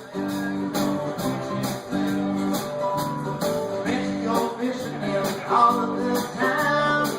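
Folk band playing an upbeat blues song live: a plucked guitar and a walking bass line, with a steady beat of sharp percussion hits about twice a second.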